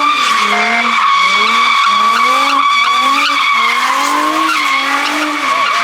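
A car doing donuts at a car meet: its tyres squeal with a loud, steady high tone while the engine revs up and down about once a second.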